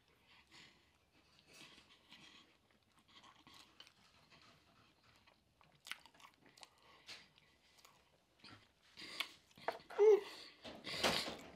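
Close-miked chewing of fried catfish and spaghetti with soft crunches, faint at first. It grows louder in the last few seconds, with sharp mouth clicks and a loud wet burst as a forkful of spaghetti goes in.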